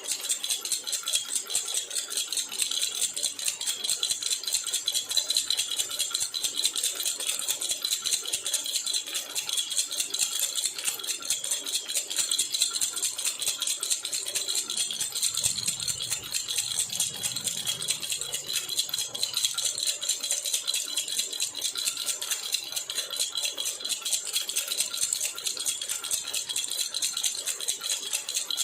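Jhunjhuna baby rattle shaken steadily and quickly, a continuous bright jingling rattle with no pauses.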